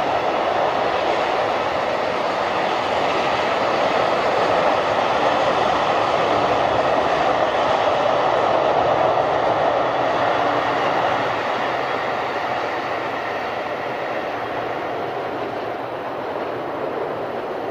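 A freight train of tank wagons rolls past, its wheels running steadily on the rails, with a commuter electric train passing on the same line in the middle; the rolling noise is loudest midway and fades away over the last several seconds.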